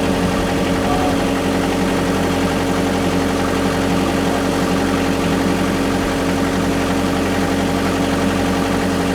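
Kubota KX121 mini excavator's diesel engine idling steadily, just after starting with a newly fitted auto idle motor; the idle sits a little high, and the owner thinks it may need setting lower.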